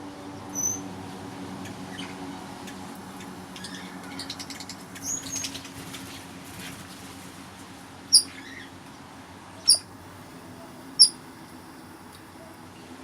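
Red-rumped parrots giving short, sharp, high-pitched chirps: a few faint ones, then three loud single chirps about a second and a half apart near the end. A steady low hum runs underneath.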